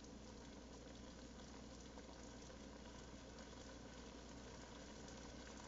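Faint, steady bubbling and sizzling of risotto simmering in a pan on the stove, with a few tiny pops.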